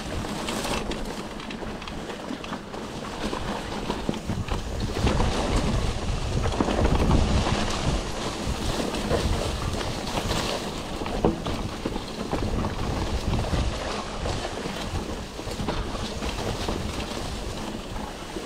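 Wind buffeting the microphone while a mountain bike rolls down a rough dirt trail, tyres on loose ground and the bike rattling with small clicks; it grows louder towards the middle.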